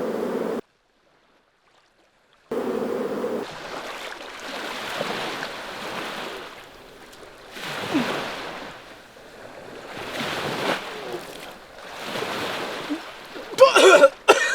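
Ocean surf: waves breaking and washing up the shore, swelling and falling every two to three seconds. A short steady low tone sounds at the start and again about three seconds in, and near the end a man's voice cuts in loudly.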